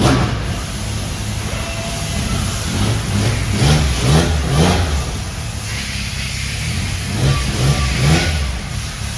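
Lancia Stratos rally car's Ferrari Dino V6 idling with a steady low drone, blipped on the throttle: two quick revs about a third of the way in and two more near the end.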